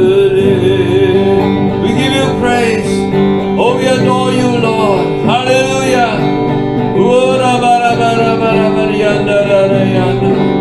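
Worship music: acoustic guitar with a held chord underneath and a voice singing a melody over it.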